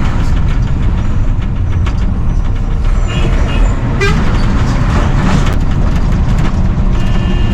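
Heavy truck engine rumbling steadily, with a few short horn toots about three and four seconds in.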